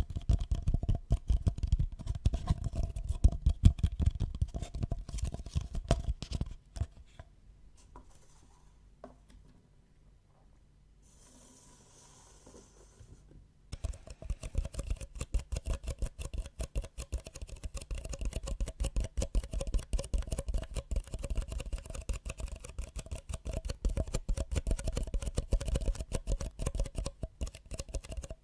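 Rapid close-miked tapping and scratching on an object, a dense, irregular patter of small clicks. It stops for about seven seconds in the middle, then starts again.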